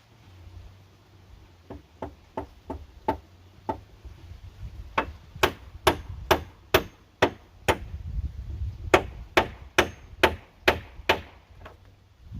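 Repeated sharp strikes of a hand tool on wood or bamboo, about two a second, growing louder partway through.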